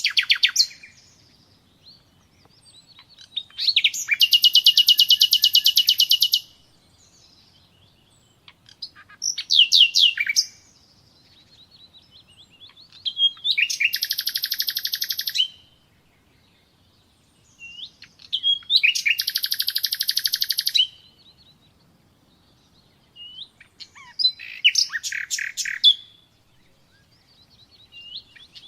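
Common nightingale singing: about five separate phrases, each a rapid, loud run of repeated high notes lasting two to three seconds, with brief whistles and pauses of a few seconds between them.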